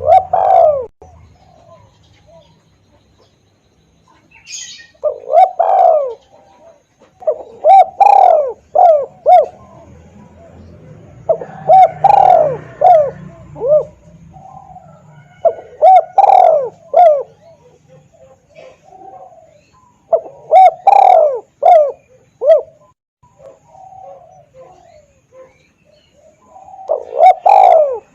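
Spotted dove (tekukur) cooing: phrase after phrase of short coos, a few seconds apart, over a faint low hum. This is a lure call used to draw in wild doves.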